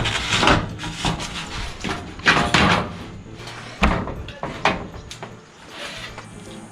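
Five or so irregular knocks and bangs from construction work on a shed's corrugated tin wall, each ringing briefly.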